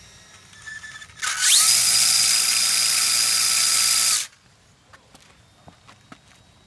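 A 2WD mid-motor RC drag car making a pass. Its electric motor whine climbs sharply in pitch over a fraction of a second, holds high and steady with a loud hiss for about three seconds, then cuts off suddenly. A few faint ticks follow.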